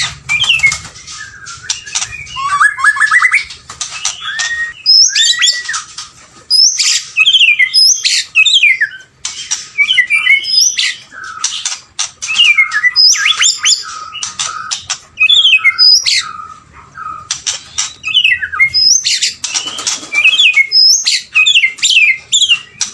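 White-rumped shama singing: a rich run of loud, varied phrases of rising and falling whistles and sharp, clipped notes, each a second or so long, with short pauses between them.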